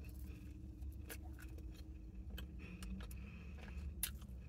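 Quiet chewing of a bite of toasted bagel: faint, scattered crunchy clicks over a low steady rumble.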